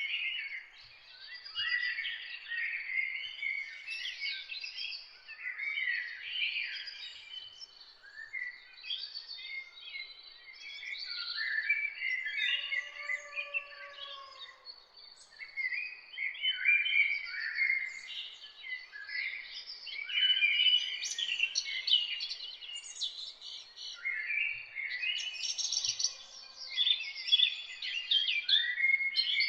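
Several songbirds singing at once, a dense chorus of overlapping chirps, trills and warbling phrases. A lower, arching call stands out about 13 seconds in.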